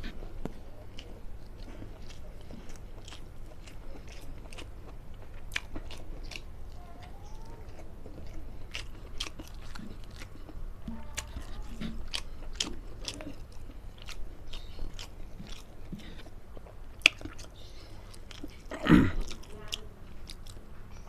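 Close-up chewing and biting, with many small wet mouth clicks, from someone eating stir-fried long beans in spicy shrimp-paste chili sauce. There is one sharp click about 17 seconds in and a brief vocal sound near the end.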